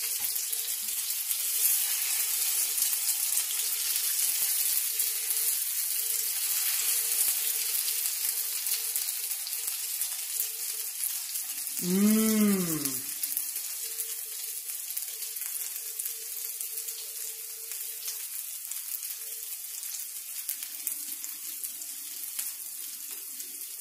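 Potato pancakes frying in a shallow pan of hot oil, a steady sizzle that eases slightly as it goes on. About halfway through, a short voice sound rises and falls in pitch.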